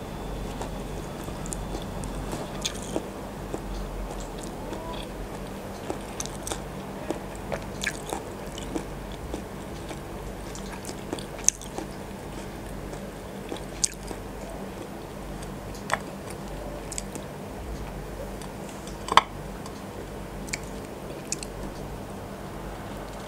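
Close-miked chewing and biting of boiled, incubated chicken embryo eggs, with short wet clicks scattered throughout; the sharpest click comes about 19 seconds in. A steady low hum and hiss runs underneath.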